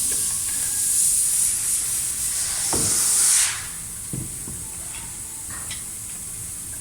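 A high hiss, loud for about the first three and a half seconds and then fainter and steady, with a couple of light knocks in between.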